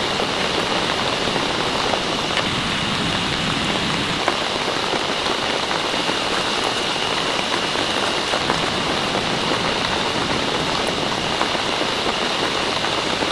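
Steady rain falling, with scattered sharp drop ticks through it.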